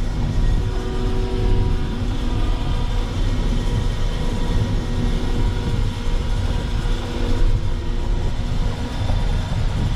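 Terex FD4000 front-discharge concrete mixer truck's diesel engine running, a steady low drone with faint whining tones above it.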